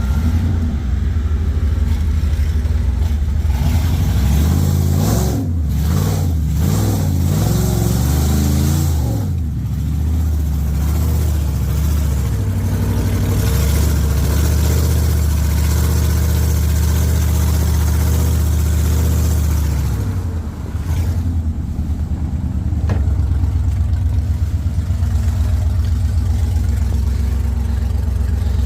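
Heavy vehicle engine running: its revs rise and fall for a few seconds, then hold steady. It dips briefly about two-thirds of the way through and settles into a lower, even throb.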